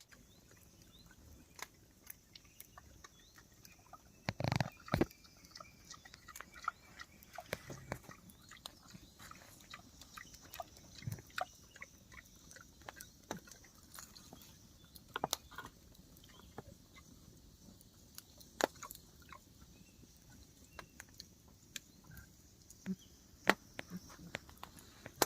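A young wild boar chewing and snuffling beside a campfire, with scattered sharp clicks and crackles and an occasional brief low sound.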